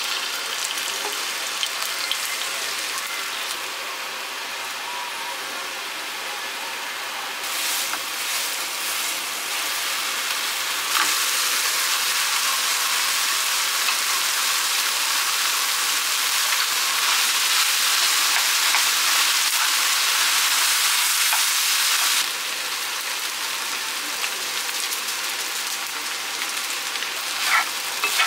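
Kimchi fried rice frying in oil in a nonstick wok on a gas stove: a steady sizzling hiss. It grows louder about a third of the way in and eases back a few seconds before the end.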